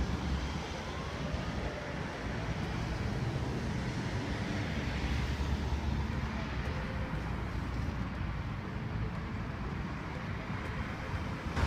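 Road traffic passing on a busy road: a steady rumble of engines and tyres.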